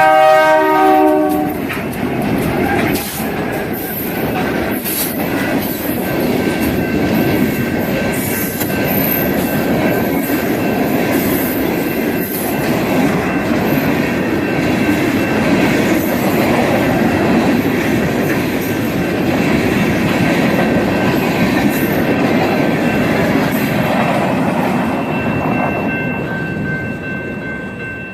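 LGB G-scale model train running on its track, with a steady rattling, rumbling wheel and gear noise. A whistle from the locomotive's sound unit sounds as it opens and stops about a second and a half in. The noise eases off near the end.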